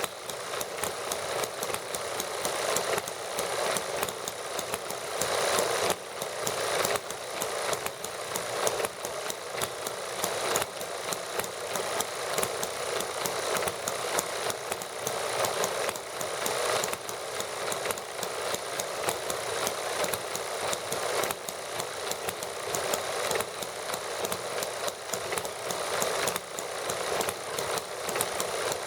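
Several small model gasoline engines running together, a steady, rapid clattering of firing strokes and mechanical clicks.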